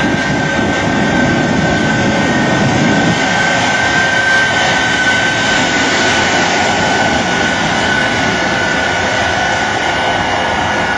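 Jet truck's turbine engines running steadily: a constant broad roar with a high, steady turbine whine over it.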